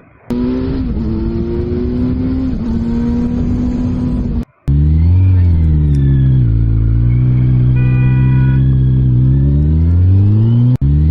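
Motorcycle engine running at speed with wind noise. After a brief gap, the engine note drops as the bike slows, holds low, then rises again as it accelerates.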